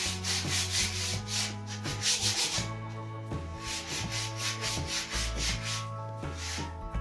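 Sandpaper rubbing back and forth along a new wooden snooker cue shaft, in repeated strokes about once or twice a second, with music underneath.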